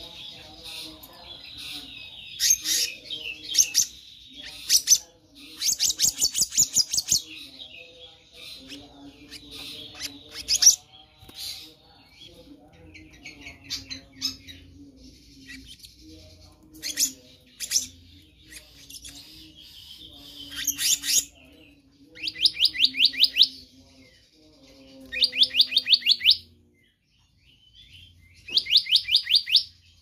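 Black-naped monarch calling: quick series of sharp, high notes, each series lasting about a second, with softer chirps in between; three loud series come close together near the end.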